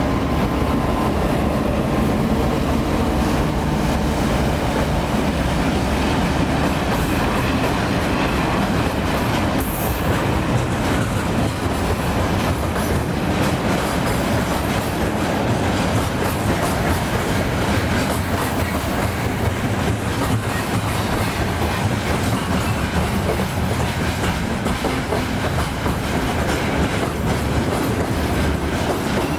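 Loaded freight train rolling past on an upgrade, its wagon wheels clattering steadily over the rail joints. A low diesel drone from the 2TE10M locomotive's 5D49 engines working under load is strongest in the first third and then gives way to the wheel noise.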